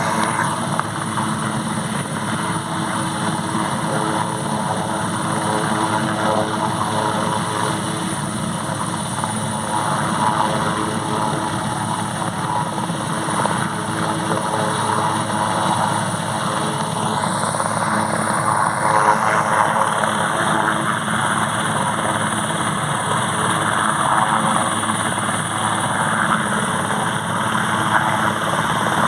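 Airbus AS 532AL Cougar helicopter running steadily, its twin turboshaft engines giving a steady high whine over the rushing rotor noise.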